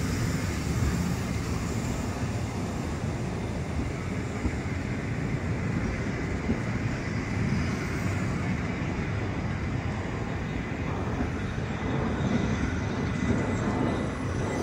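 A Rhaetian Railway passenger train rolling slowly past the platform, with a steady rumble of wheels on the rails as carriage after carriage goes by.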